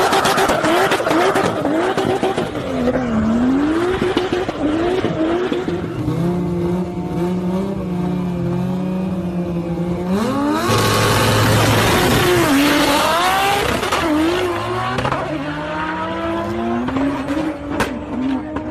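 Toyota Supra MK4's straight-six engine revving in quick blips, then holding a steady note. About ten seconds in it accelerates hard amid a loud rush of noise, and near the end its pitch climbs steadily again.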